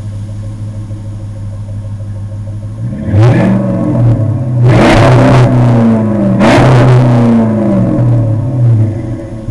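2005 Dodge Magnum RT's 5.7-litre Hemi V8 through an aftermarket Magnaflow exhaust, idling steadily, then revved three times from about three seconds in. Each rev climbs quickly and falls back slowly to idle.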